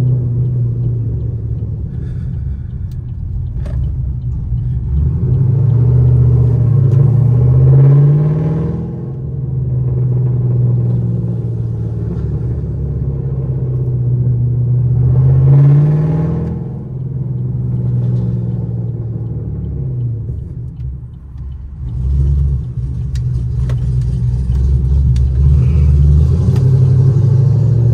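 Chevrolet Camaro SS V8 engine running with a steady rumble, the revs climbing twice and dropping back, with a brief dip in level near the end.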